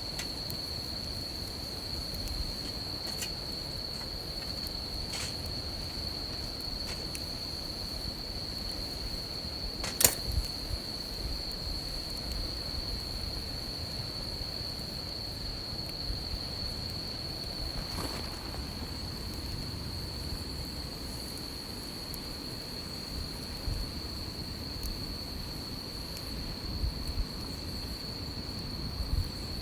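Campfire crackling with scattered pops, one sharp crack about ten seconds in, over a continuous high insect trill.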